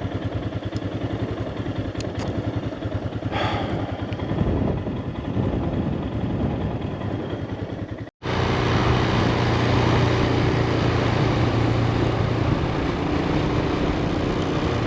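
Motorcycle engine running at low speed with a steady throbbing pulse; about eight seconds in, a cut to a louder, steadier engine note as the bike rides along.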